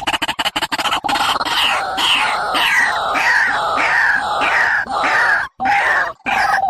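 A bird calling in a repeated series of falling notes, about three a second, after a second of rapid pulsing; the sound breaks off abruptly twice near the end. It is a call played as a lure for trapping birds.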